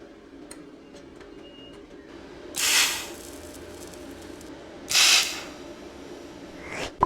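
Two short bursts of hissing spray from a pressurised nozzle, each about half a second long and about two seconds apart.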